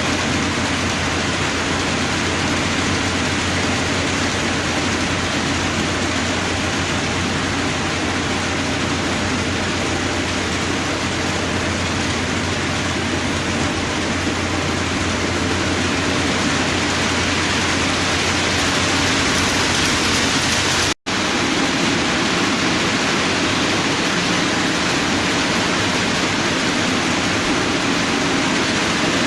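HO-scale model train running: a steady rolling rush from a long string of freight cars on the track over a low motor hum. The sound drops out for an instant about two-thirds of the way through.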